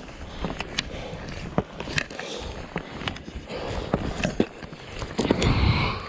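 Skis scraping and clicking over snow, with irregular sharp ticks, while wind buffets the microphone in a low rumble that is strongest near the end.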